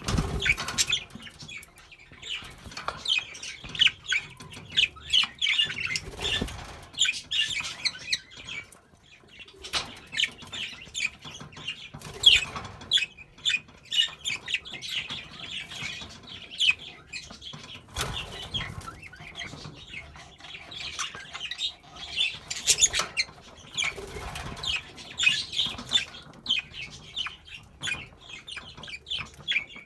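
Sky blue spangle budgerigars chattering with a steady stream of short chirps and warbles, and a few brief bursts of wing flapping.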